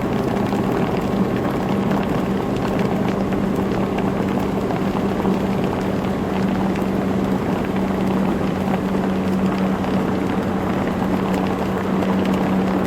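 Four Winns motorboat's engine running steadily under way, a constant hum with wind and water rushing past.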